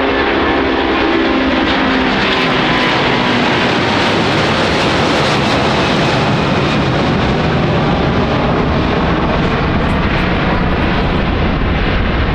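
Airbus Beluga XL (A330-700L) twin Rolls-Royce Trent 700 turbofans at takeoff thrust: loud, steady jet engine noise as the aircraft departs. The hiss swells to a peak about five seconds in and then eases.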